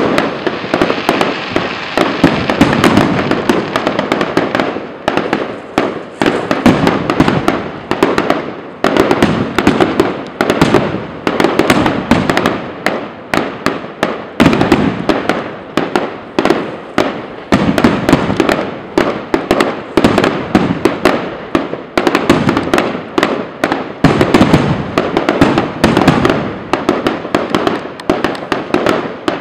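New Year fireworks display going off in a loud, continuous barrage: aerial shells bursting in rapid bangs, several a second, one after another with no break.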